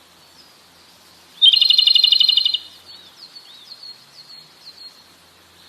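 A bird sings a loud, rapid trill lasting about a second, followed by a series of softer short whistled notes, a few per second.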